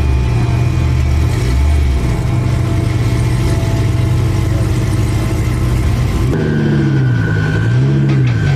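A car engine running at a steady idle, then revved up and down in a few quick blips near the end.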